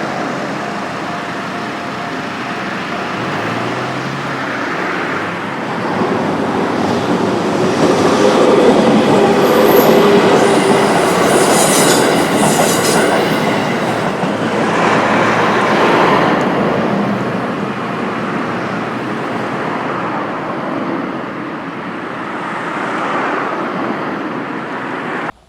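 A JR Minobu Line train running past over a level crossing. The sound builds about six seconds in, is loudest from about eight to thirteen seconds in, and eases off toward the end.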